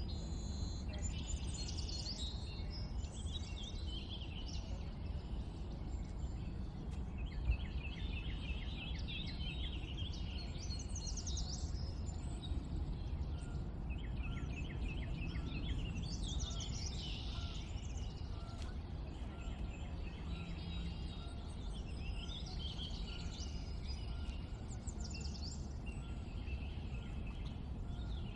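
Several wild birds chirping and calling, with short high notes and fast trills coming and going throughout, over a steady low background rumble.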